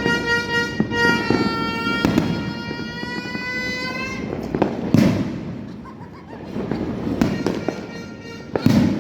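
Neighbourhood fireworks and firecrackers going off in scattered bangs, the loudest about five seconds in and again near the end. A long held horn-like tone sounds over the bangs through the first half.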